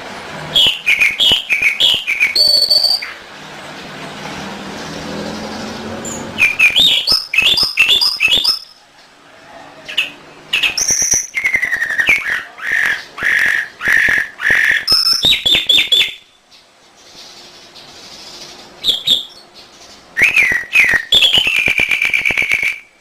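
Domestic canary singing in phrases of rapid chirps and trills, broken by short pauses; the middle phrase is a string of evenly repeated notes, and a long unbroken trill comes near the end.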